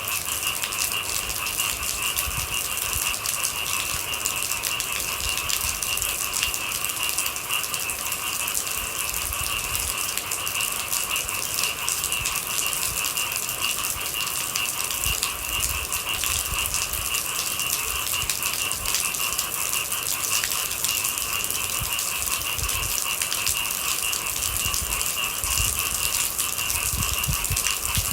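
Steady rain with a continuous, high-pitched chorus of night animals running unbroken beneath it.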